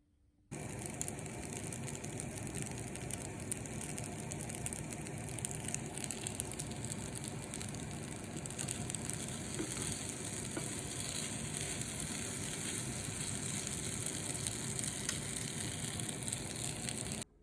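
Food sizzling in a frying pan, a steady dense crackle that starts suddenly about half a second in and cuts off just before the end.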